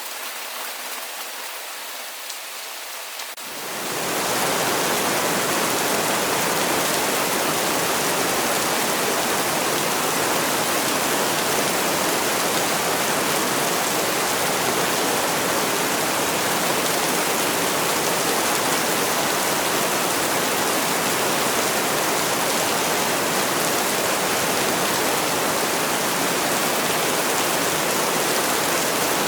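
Rain pattering, which about three and a half seconds in gives way to a louder, dense, steady rush of heavy rain.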